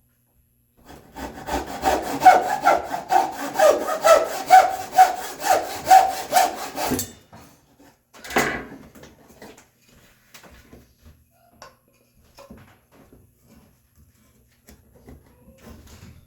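Hand saw cutting through red oak with quick back-and-forth strokes, about two and a half a second, for about six seconds before stopping abruptly; a second later comes one short scrape, then a few faint knocks.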